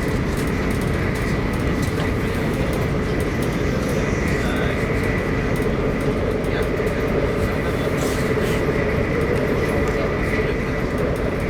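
Arlanda Express electric train running, heard from inside the passenger car: a steady low rumble of wheels on rail, with a faint steady hum over it.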